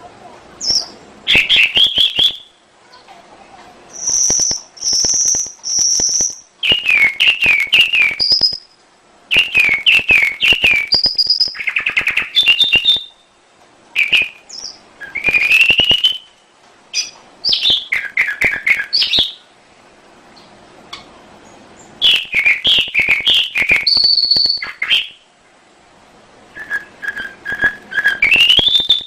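Domestic canary singing: varied phrases of rapid trills and chirps broken by short pauses, including three clear, high whistled notes about four seconds in and a longer pause around twenty seconds in.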